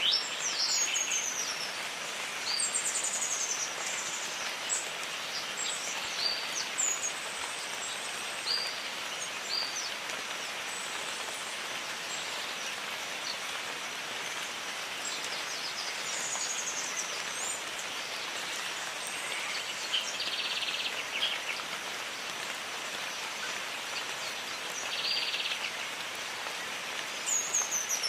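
Steady rain falling in a jungle, with birds calling over it: short, high, downward-sweeping calls at irregular intervals, most around the start, about three seconds in and near the end, and two brief buzzy trills about two-thirds of the way through.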